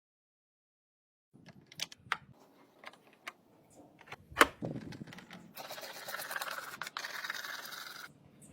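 Near silence at first, then scattered small clicks and taps of tools or parts being handled, with one sharp knock about four and a half seconds in and a few seconds of rough scraping or hissing noise near the end.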